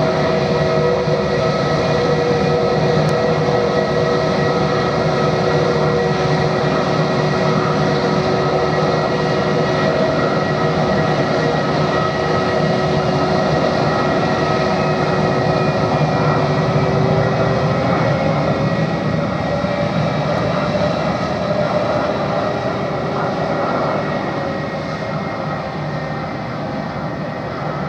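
Airbus A320 jet engines running: a steady roar with several high whining tones. The whine shifts pitch about two-thirds of the way through, and the sound slowly fades towards the end.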